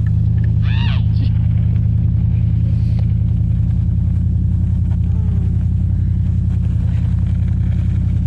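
Pickup truck engine running at a steady pace, a loud, even low drone. A brief high-pitched vocal cry about a second in.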